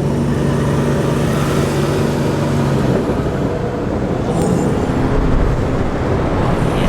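Gen 1 Coyote 5.0 V8 engine of a car under way, holding a steady note that changes pitch about three seconds in.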